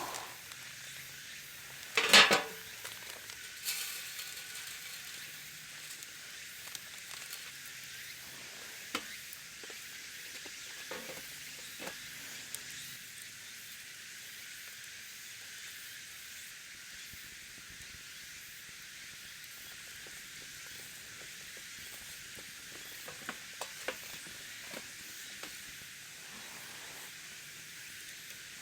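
Meat searing in a Dutch oven, a steady high sizzle, with one sharp metallic clank about two seconds in and a few light ticks later.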